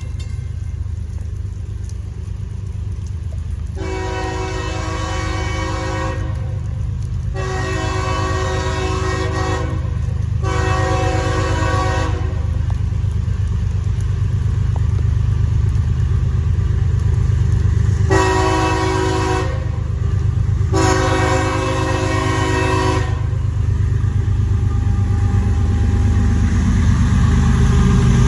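CSX diesel freight locomotive sounding its multi-chime air horn in five separate blasts, over the low rumble of the locomotive engines growing steadily louder as the train approaches.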